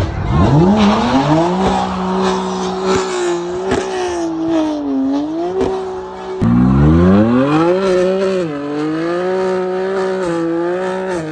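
Car engine revved hard and held at high revs, dipping slightly now and then; it drops back about six seconds in, then revs up sharply and holds high again.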